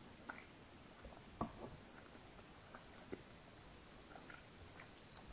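Faint, scattered wet mouth clicks from chewing and swallowing a mouthful of ice cream close to the microphone. One louder click comes about a second and a half in.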